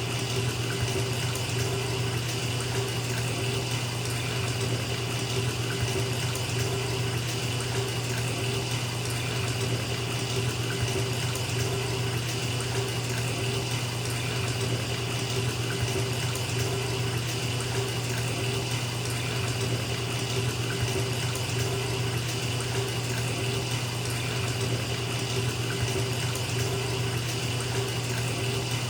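Bathtub tap running steadily, water pouring into a filling tub: an even, unchanging rush of water.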